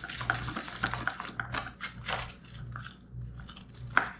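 Small irregular clicks and crunching of hard plastic parts being handled and fitted together, over a low hum, with one sharper click near the end.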